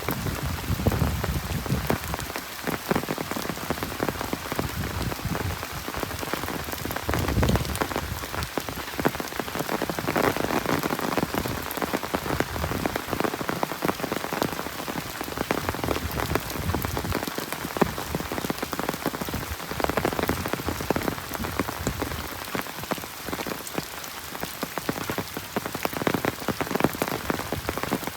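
Steady monsoon rain falling on a road and trees, dense patter of many drops, with occasional louder low swells.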